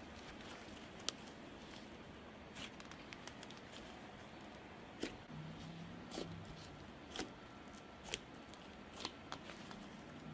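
About seven short, sharp clicks and snaps at irregular intervals over faint room noise, like small objects being handled.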